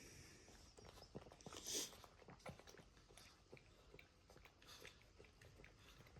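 Faint wet licking and smacking from a Boston terrier mother and her newborn puppies, a scatter of small soft clicks with one short louder breathy burst about two seconds in.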